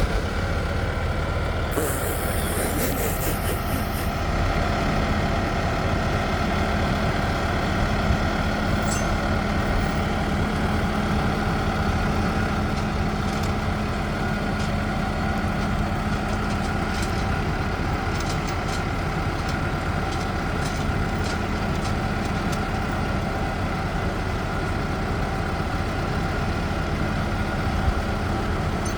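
Heavy vehicle engine running steadily at a constant speed, with a brief hiss about two seconds in.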